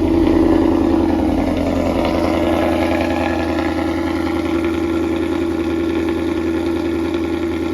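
A car engine idling steadily, one even low note.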